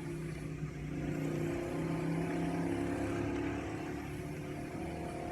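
Motor vehicle engine running nearby, a steady low hum that holds its pitch.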